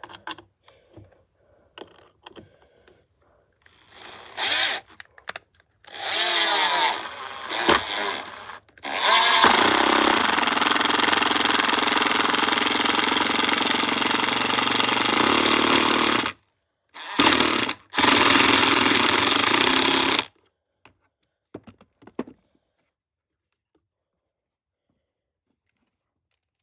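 Brushed cordless impact drivers, a RIDGID and a Milwaukee, hammering fasteners in a speed race. A few short bursts lead into one long run of about seven seconds, then a brief pause and a shorter run of about three seconds, after which it goes quiet.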